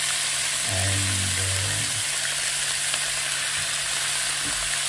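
Thin slices of beef sizzling as they fry in a hot pan, a steady high hiss.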